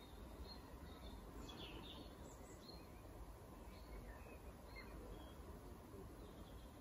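Near silence: a faint steady outdoor background rumble with a few scattered, distant bird chirps.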